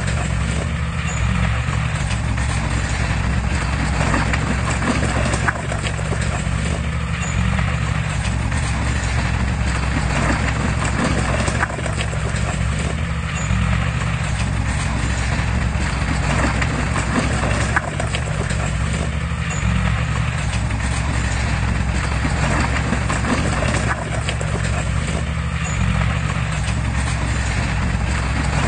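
Heavy diesel earthmoving machinery running steadily under load, a low engine note with constant clatter over it, the pattern repeating about every six seconds.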